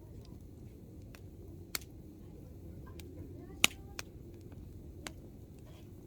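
Hardwood campfire burning with a low steady rush and scattered crackles. One sharp pop comes just under two seconds in, the loudest pop a little past halfway, and fainter crackles follow.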